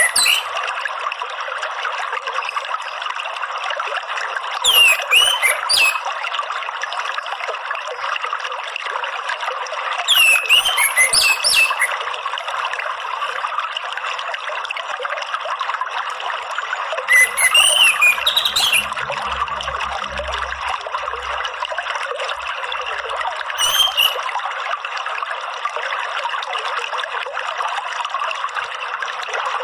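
Orange-headed thrush (anis merah) singing four short, loud song phrases of quick rising and falling notes, about six seconds apart, over a steady trickle of running water.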